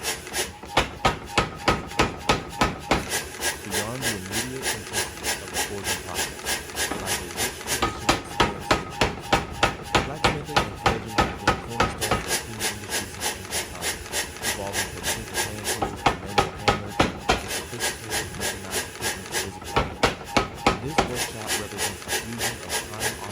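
Rapid, regular hammer blows from a forging power hammer striking hot steel, about four a second, with stretches of heavier strikes.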